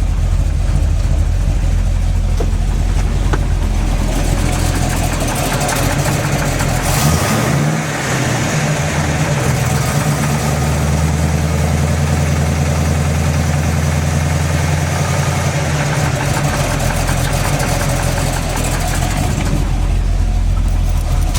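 Small-block Chevy 350 V8 with aluminum heads idling, brought up to a higher speed about a third of the way in, held there, then let back down to idle. Runs with a knock that the owner suspects is piston slap or flexplate knock rather than rod knock, since pulling each plug wire did not change it.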